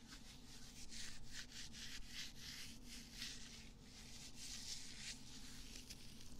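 ASMR ear-cleaning sounds close on the microphone: a run of soft rubbing and scraping strokes, about two a second.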